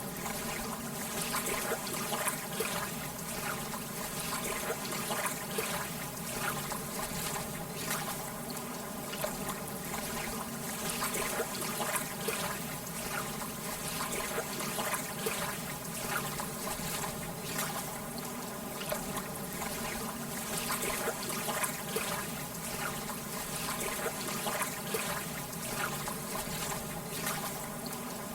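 Lake water lapping gently at the shore, a steady wash of small irregular splashes and trickles.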